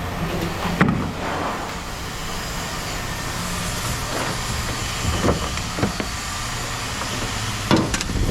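An engine running steadily, with a few short knocks scattered through it, the loudest just under a second in and near the end.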